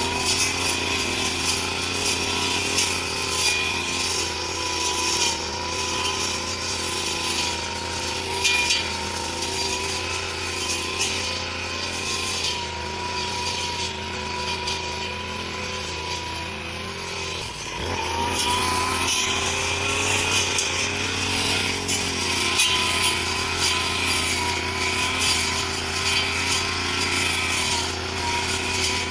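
Grass cutting machine's small engine running at high speed with a steady, slightly wavering whine, easing off briefly a little past halfway through before picking up again.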